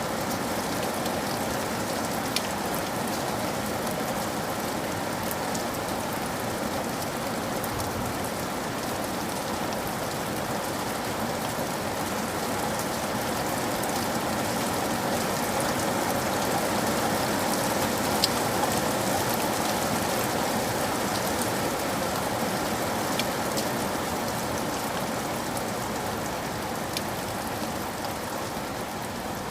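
Steady rain falling on a roof, with occasional single louder drops ticking.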